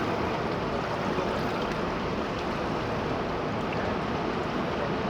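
River water rushing steadily in a continuous, even wash of noise.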